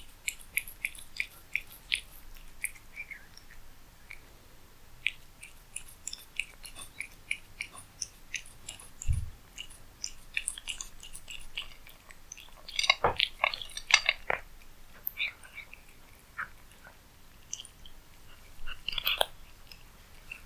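A cat eating cat food close to the microphone: quick, irregular chewing clicks, busiest about two-thirds of the way through, with a single low thump about nine seconds in.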